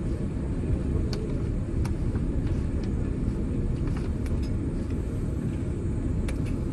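Cabin noise inside a Boeing 787-8 during pushback, before engine start: a steady low rumble with a few faint clicks.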